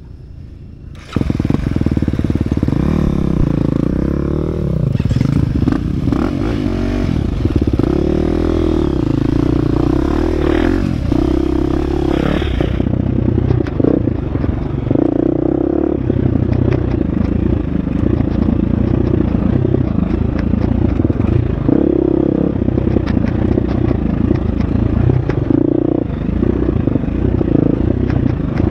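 Husqvarna FX 350 dirt bike's four-stroke single-cylinder engine revving up and down under riding. It comes in abruptly and loud about a second in.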